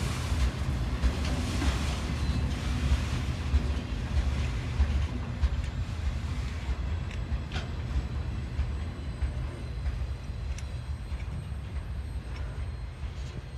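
Freight train rolling past: a steady low rumble of cars on the rails, with scattered clicks of wheels over rail joints, easing off slightly in the second half.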